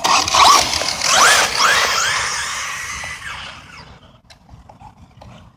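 Electric RC stadium truck on a 3S LiPo pulling away on pavement: its motor whines up in pitch in several quick spurts over tyre hiss in the first two seconds, then the sound fades away as the truck drives off.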